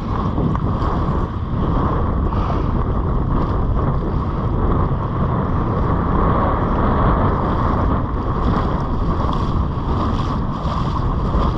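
Wind buffeting the microphone over surf washing on a beach: a loud, steady rush of noise with small swells.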